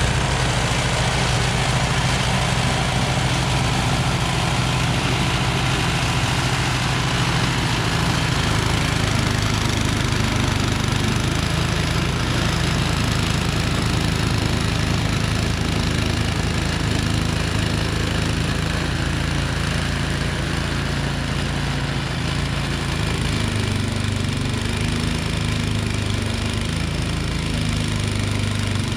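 Cub Cadet 30-inch snowblower's 13 hp Tecumseh Snow King engine running steadily at full throttle, its note shifting now and then as it works through heavy, wet snow.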